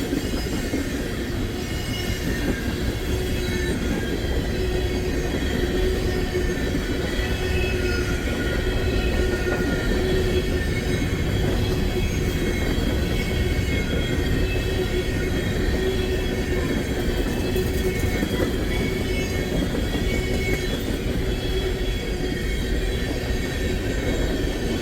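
Freight train of crude oil tank cars rolling past: a steady, continuous rumble of wheels on rail, with faint high wheel squeals coming and going.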